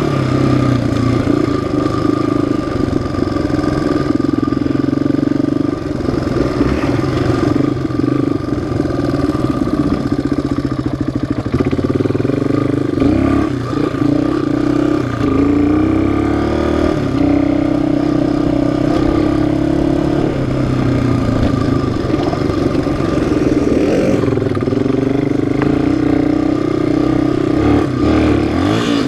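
Single-cylinder four-stroke off-road engine running under changing throttle, its pitch rising and falling again and again as the rider speeds up and eases off.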